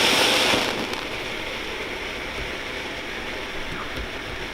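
Ground firework fountain spraying sparks with a steady rushing hiss. The hiss is loudest and brightest for the first moment, then drops to a lower, steadier level, with a few faint crackles.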